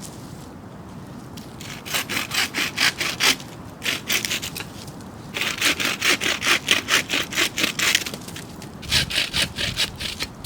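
Hand saw cutting through wood with quick back-and-forth strokes, in three bouts with short pauses between.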